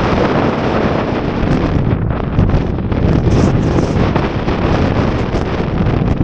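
Strong wind buffeting the microphone: a loud, steady rush with small irregular surges.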